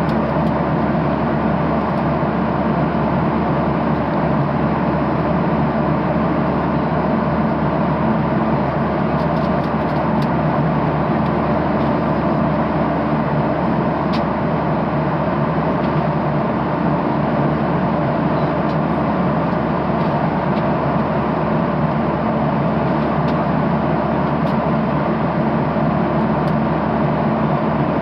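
Steady cabin noise of a Boeing 737-800 in flight: an even rush of airflow and engine noise at a constant level, with a few faint clicks.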